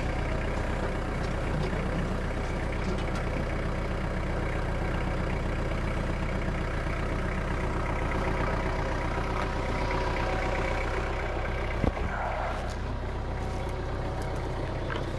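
Tractor engine running steadily, with a single sharp knock about twelve seconds in.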